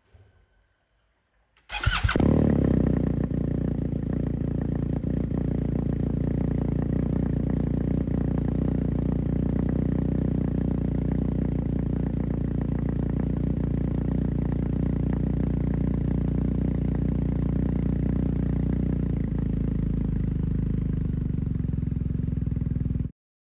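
BMW R1250 GSA's boxer-twin engine cold-started about two seconds in, catching at once and settling into a steady idle through an Akrapovič exhaust with its silencer insert removed; the sound cuts off abruptly near the end.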